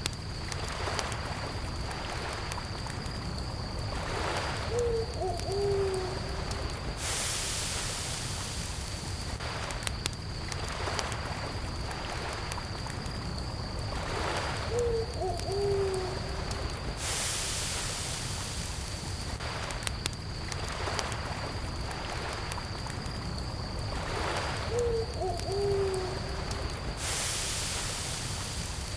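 Night lakeside ambience on a ten-second loop. Crickets chirr steadily and high, a campfire crackles over a low rumble, and lapping lake water swells briefly. An owl hoots a few short notes about every ten seconds.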